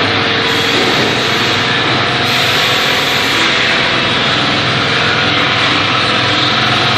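Steady, loud machinery noise of a sheet-metal rectangular-duct production line running: a constant hiss over a low hum, with no separate knocks.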